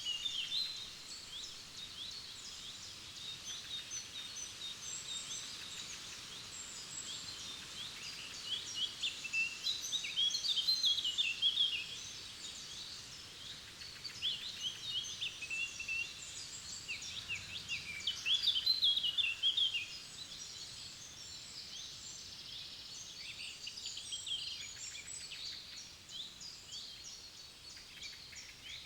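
Several forest songbirds singing and chirping at once, many short overlapping phrases, busiest about a third of the way in and again about two-thirds through.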